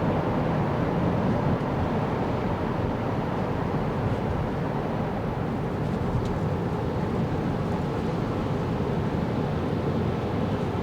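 Steady low road and tyre rumble heard inside the cabin of a 2024 Kia Carnival Hybrid minivan driving on snowy roads.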